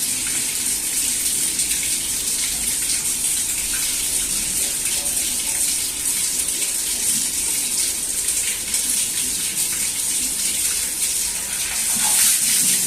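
Water rushing steadily out of an open wall supply pipe while the washing machine's water valve is swapped with the mains still on.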